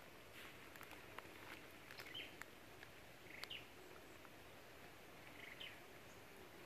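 Faint outdoor background of a few short bird chirps and scattered small clicks over a low, steady hiss.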